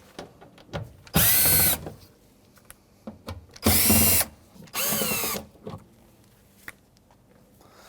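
Power drill with a Phillips bit running in three short bursts, each spinning up and winding down, as it backs out the three Phillips screws that hold a cover panel.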